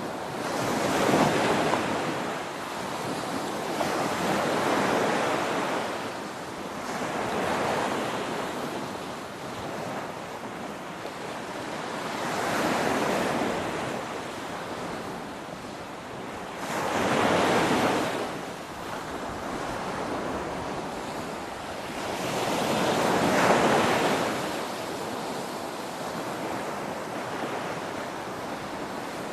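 Ocean waves breaking on a shore, a continuous wash of surf that swells and falls back as each wave comes in, with the loudest breakers about every five or six seconds.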